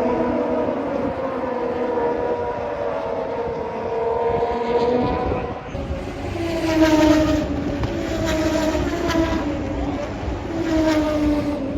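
Several high-revving racing motorcycle engines heard together, their pitches sliding down and up as the bikes pass and change gear.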